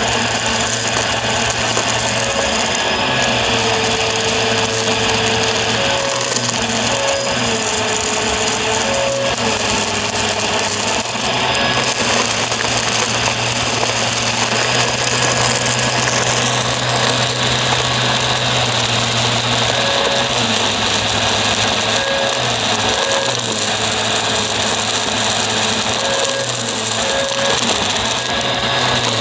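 Upright vacuum cleaner running steadily, its motor pitch dipping and recovering several times as it works. The rush of air changes about two-thirds of the way through.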